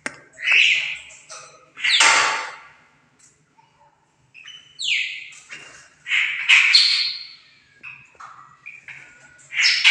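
Songbirds calling in separate bursts: harsh, rasping chatters mixed with quick falling whistles and short whistled notes, with brief pauses between them. The loudest is a harsh call about two seconds in.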